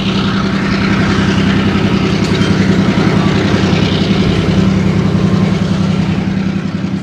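Diesel freight locomotive running close by with a steady, rapidly pulsing engine note. It grows louder as it comes past, then begins to ease off near the end.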